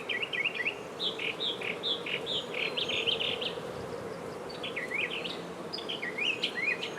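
Honey bees humming steadily around an opened hive, with a songbird's quick repeated chirps over it, pausing briefly about midway.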